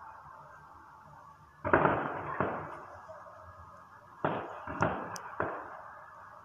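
Aerial firework shells bursting in two volleys: about three booms in quick succession near the 2-second mark, then about four more around the 4–5-second mark, each volley fading away before the next.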